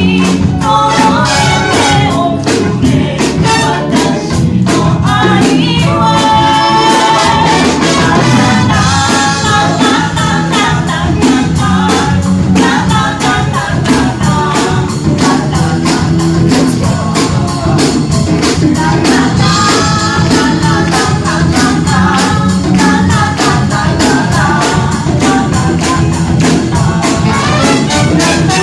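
Live band music with a singer over a steady percussion beat.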